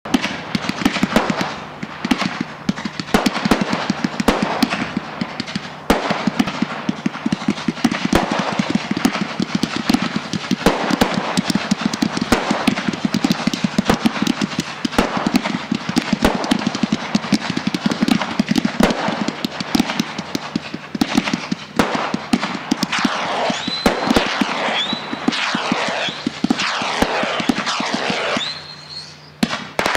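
Consumer firework barrage cakes firing in rapid succession: a dense, continuous crackle of bangs and pops. Several rising whistles come through near the end, and the barrage briefly dies down just before it resumes.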